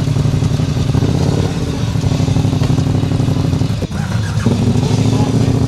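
Motorcycle engine running steadily, with a brief dropout about four seconds in.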